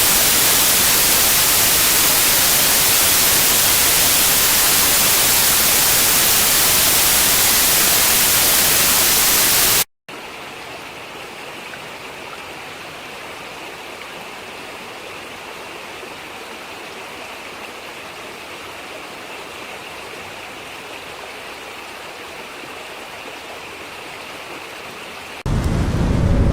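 Rushing water, loud and steady, cutting off abruptly about ten seconds in and giving way to a quieter, steady rush; near the end a louder, deeper rushing noise starts suddenly.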